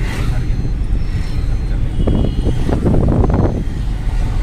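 Maruti Celerio running on the road, its engine and road noise heard from inside the cabin as a steady low rumble, growing louder and rougher for a second or so in the middle.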